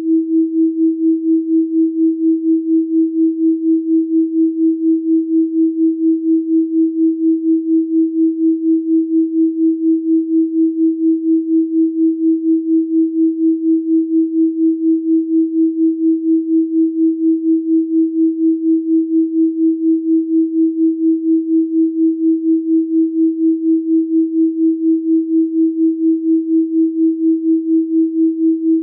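Steady electronic sine tone at 324 Hz, a single low-mid pitch with no overtones, pulsing evenly in loudness a few times a second.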